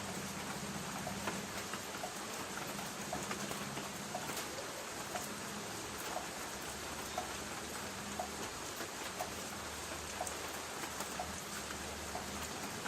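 Light rain pattering steadily on a tin roof, with a light tick repeating about every half second.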